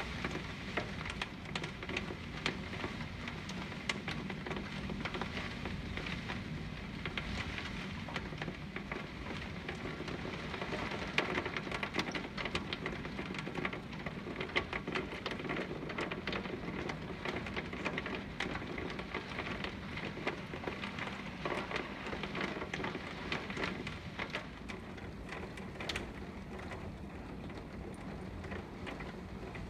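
Heavy hurricane rain pelting a window pane: a dense, steady patter of drop hits over a continuous rushing noise.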